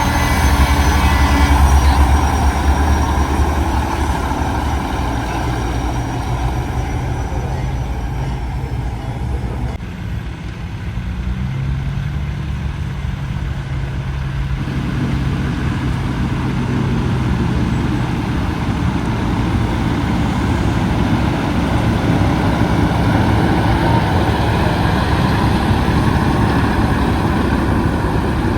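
Diesel semi-trucks driving past in a convoy, their heavy engines running. The sound is loudest in the first couple of seconds, dips briefly near the ten-second mark, then builds again as more trucks come by.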